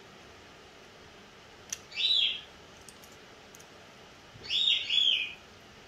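Pet bird calling: one chirp about two seconds in, then two more close together near the end. Each call rises and falls in pitch.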